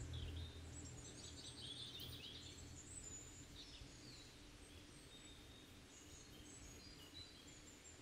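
Faint, high chirps and twitters of small birds over a near-silent background, with a quick run of calls about two seconds in and scattered single chirps after.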